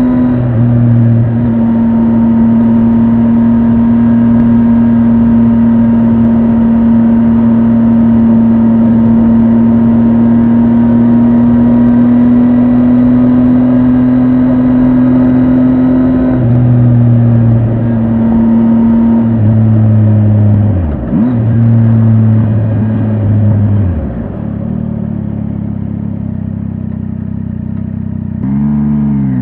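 Triumph Tiger 800 XRT's inline three-cylinder engine under way, holding steady revs for about sixteen seconds, then dropping revs twice as the bike slows. It runs quieter for a few seconds and pulls away with rising revs at the very end.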